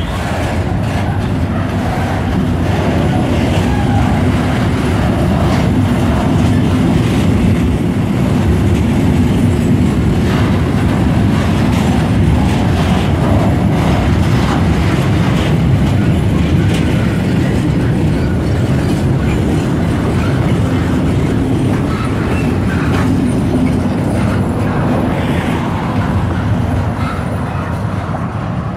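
Freight train wagons rolling past close by: a steady loud rumble of steel wheels on rail with repeated clacking over the rail joints, fading a little near the end as the last wagons go by.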